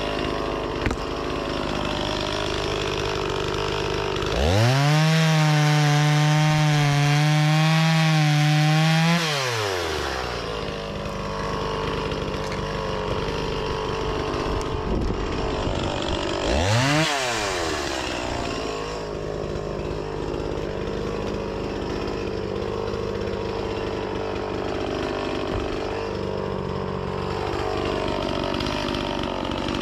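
Two-stroke petrol chainsaw running, revved to a steady full throttle for about five seconds a few seconds in, then dropping back. It gives one more short rev about halfway through.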